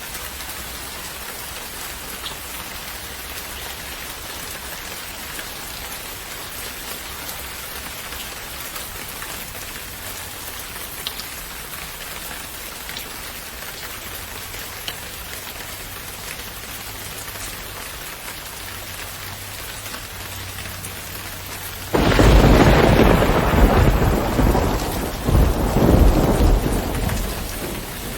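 Steady rain falling, with a few single drops ticking close by. About three quarters of the way through, a loud thunderclap breaks in suddenly and rolls on in a second swell before fading at the end.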